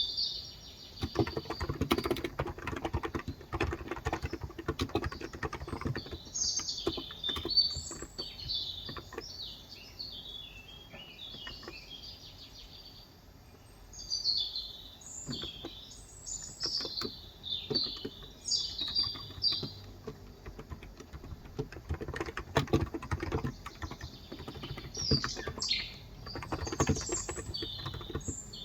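Typing on a Cox Endeavor tenkeyless keyboard with 35 g electrostatic capacitive (contactless) switches: runs of quick keystrokes broken by pauses. Small birds chirp and sing throughout.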